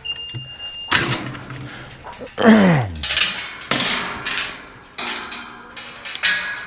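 Repeated clattering and knocking of handled metal gear. A short steady high tone comes near the start, and a brief sound falling in pitch comes about two and a half seconds in.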